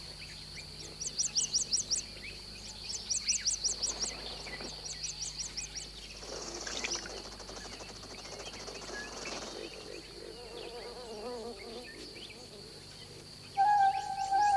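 Jungle ambience: a steady, high insect drone, broken by several short trains of rapid chirps in the first half. A sustained musical tone comes in near the end.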